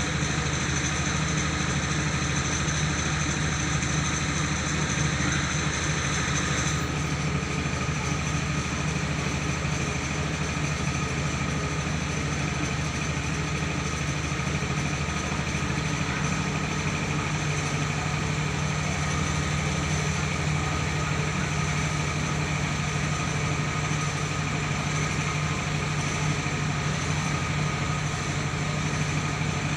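Mobile rice-milling machine running steadily: a constant engine drone driving the milling machinery, its tone shifting slightly about seven seconds in and again around sixteen seconds in.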